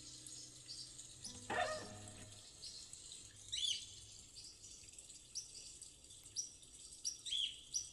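Birds chirping in short, high, repeated calls over a steady background of running water. The last notes of an acoustic guitar ring out and fade away in the first couple of seconds.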